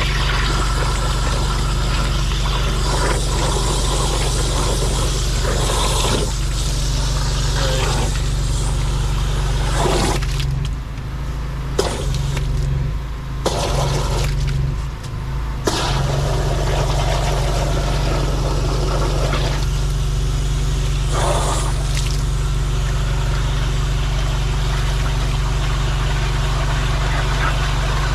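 Drain jetter's engine running steadily while its high-pressure lance blasts water into a blocked gully, water rushing and splashing as mud is flushed out. The spray breaks off briefly a few times about halfway through.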